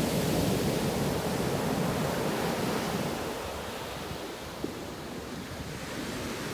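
Ocean surf breaking and washing ashore, with wind buffeting the microphone. The wash is strongest for the first few seconds, then eases.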